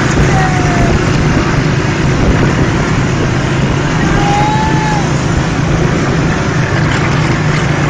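Vehicle engine running steadily and loudly, with a few short high sliding tones over it.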